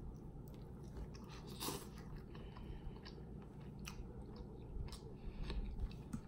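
Close-up eating sounds of rotisserie chicken being chewed, with wet mouth smacks and scattered sharp clicks, the loudest a little under two seconds in.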